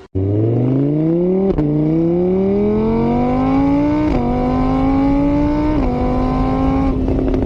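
Car engine accelerating hard, its pitch climbing and dropping back four times as it shifts up through the gears, then holding steady near the end. The sound starts suddenly.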